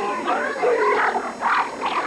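Several people's voices talking and calling out over one another, dense and overlapping.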